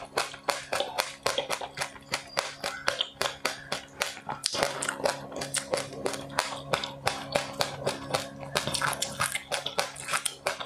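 Close-up crunching of a crisp sesame, puffed-rice and flax-seed snack being chewed, a quick run of sharp crackles about four a second.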